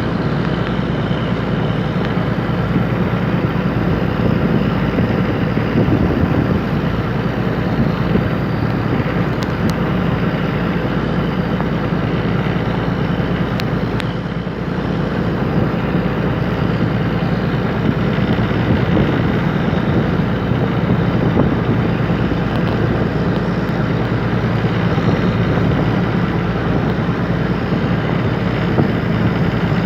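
A fishing boat's engine running steadily at a constant speed, with a low hum, and a short dip in level about halfway through.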